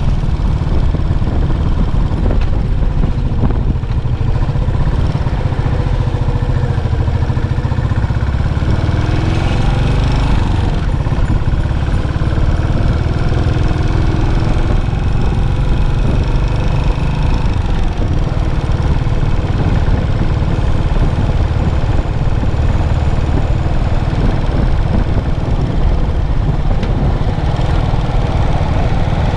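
Yamaha SR400's single-cylinder four-stroke engine running through its stock muffler, a steady low thumping throughout. Faint rising and falling engine tones come in between about 8 and 17 seconds in.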